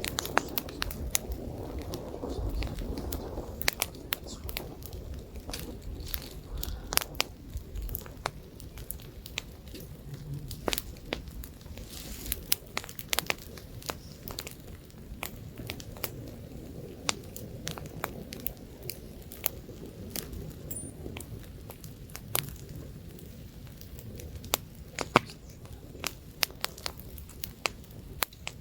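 Wood campfire crackling and popping, with sharp irregular snaps over a low rumble of light wind that is strongest in the first few seconds.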